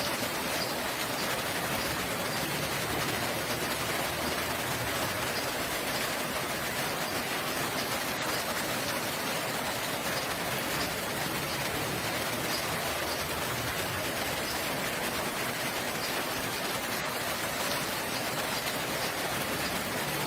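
Steady rain falling, an even hiss of rain with no change in level throughout.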